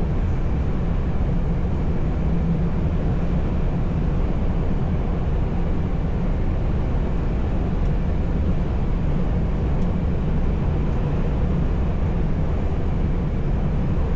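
Heavy truck driving at steady speed, heard from inside the cab: a low, even drone of diesel engine and road noise.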